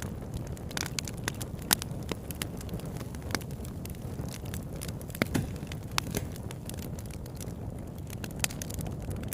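Wood campfire burning: a steady low rush of flame with scattered sharp crackles and pops, a few louder snaps among them.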